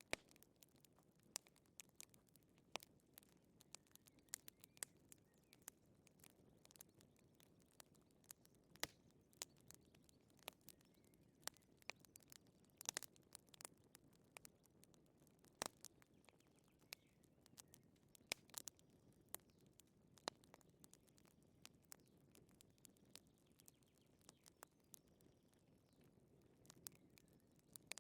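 Wood fire crackling: irregular sharp pops and snaps, several a second, over a faint low rush of the flames.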